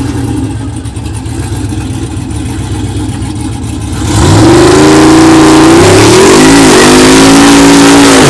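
Drag-racing street truck's engine rumbling low, then about four seconds in going to full throttle on launch, very loud. The pitch climbs and drops back twice at the gear changes.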